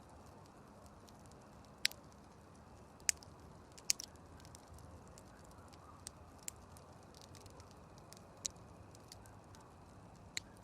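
Wood campfire burning faintly, with a low steady rumble and sharp, irregular pops and crackles from the burning wood, several of them louder than the rest.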